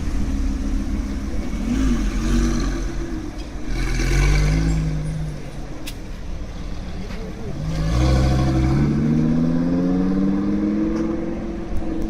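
Audi R8 engine and exhaust revving: a couple of short rises and falls in pitch, then from about two-thirds of the way in a longer pull, the pitch climbing steadily for a few seconds before dropping near the end.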